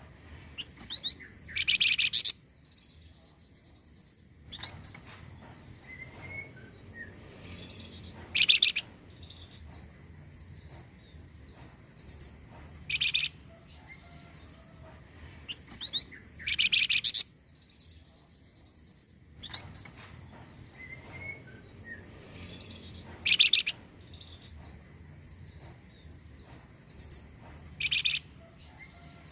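Flamboyan bird song: clusters of sharp, high chirps and quick rising whistled notes every few seconds over softer twittering, as used as a lure recording to get caged birds singing.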